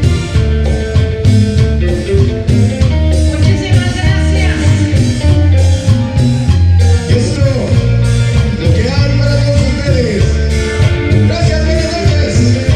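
Tropical band playing a romantic ballad, with a steady beat of bass and drums under a melody line.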